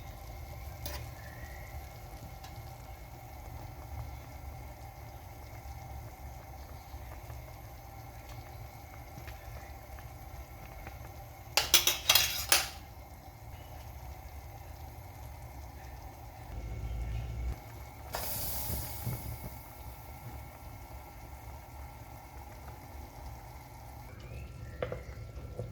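Chicken thighs frying in oil in a pan, a steady sizzle, with a short loud clatter of cookware about halfway through and a brief burst of louder hissing a few seconds later.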